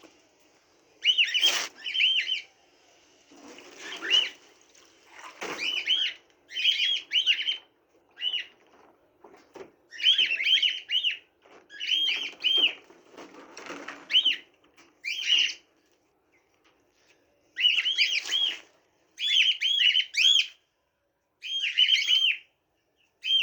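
Small birds chirping: short, clear calls in quick groups of two to four, repeating every second or two, over faint rustling. A sharp click comes about a second and a half in.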